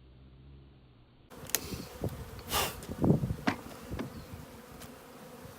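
A swarm of honeybees from a colony opened up for removal buzzing in numbers, with a few sharp knocks and scrapes mixed in. The buzzing starts suddenly about a second in, after a quiet stretch.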